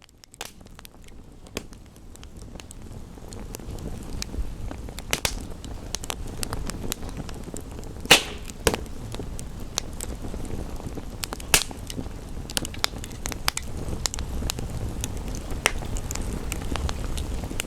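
Wood fire in a fireplace crackling, with scattered sharp pops, over a steady low rushing background. The sound fades in over the first few seconds, and the loudest pop comes about eight seconds in.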